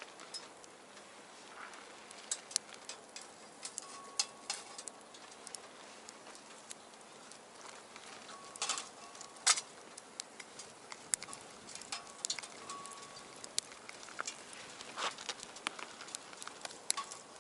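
Wood fire crackling in a small stainless steel box stove: irregular sharp pops and snaps, the loudest about nine and a half seconds in, with a few brief faint whistles.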